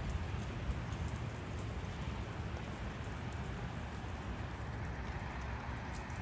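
Steady rain falling in a thunderstorm, a constant hiss with scattered sharp drop ticks.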